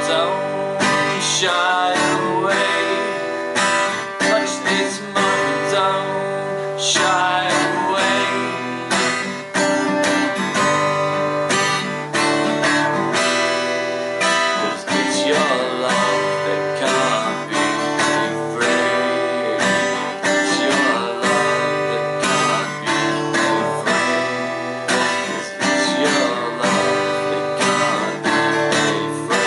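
Acoustic guitar strummed in a steady rhythm: an instrumental passage of a song, with no singing.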